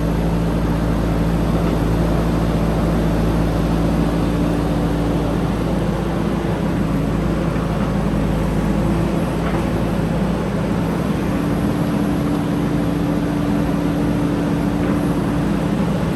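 JCB 3DX backhoe loader's diesel engine running steadily with a constant hum.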